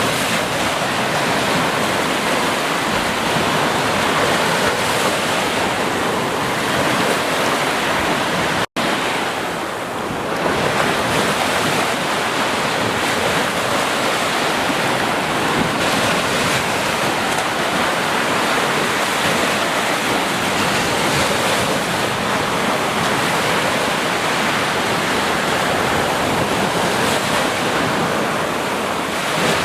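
Ocean surf washing steadily onto a beach, a continuous rushing hiss of breaking waves with some wind. The sound cuts out for a split second about nine seconds in.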